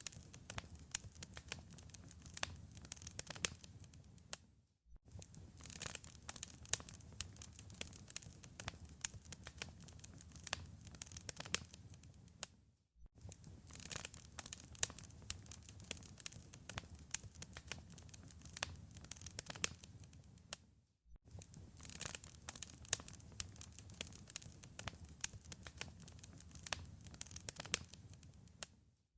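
Wood fire crackling in a fireplace: a dense run of sharp pops and snaps over a low rumble. The sound drops out briefly about every eight seconds, three times, before carrying on.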